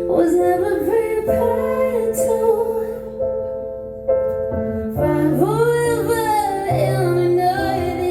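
A woman singing a slow song to her own piano accompaniment, with held piano chords under the voice. The chords change a few times; her voice lifts and wavers in a longer sung phrase in the second half.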